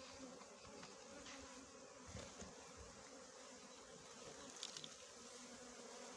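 Faint, steady buzzing of a swarm of small honeybees around their nest.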